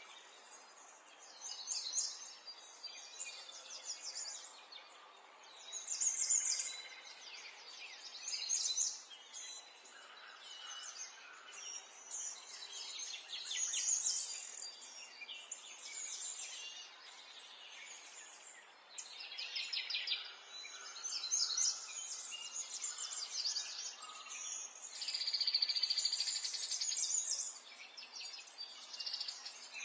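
Several birds singing and chirping, with high trilled phrases coming every second or two over a faint steady background hiss.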